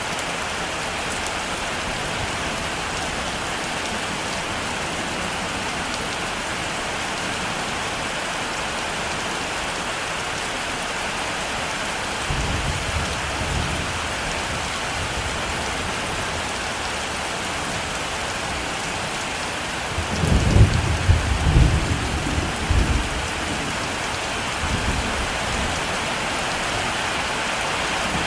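Heavy rain falling steadily, with thunder rumbling low about twelve seconds in and a louder, longer rumble of thunder about twenty seconds in.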